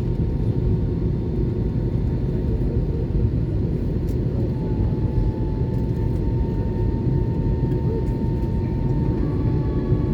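Steady low rumble inside an Airbus A320-232 cabin with its engines running at idle on the ground, with a faint steady whine in the second half that shifts higher near the end.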